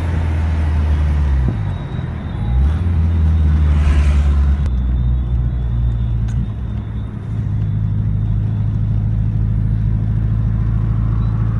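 Turbocharged Volkswagen Golf Mk4's engine, heard from inside the car. It runs with a deep steady note that falls and climbs again about two seconds in, then holds steady.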